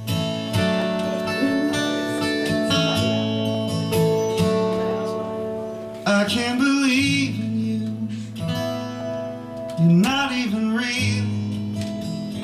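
Acoustic guitar playing a song's instrumental intro: picked and strummed chords ringing steadily. Two brief wavering notes rise over the guitar, about six and ten seconds in.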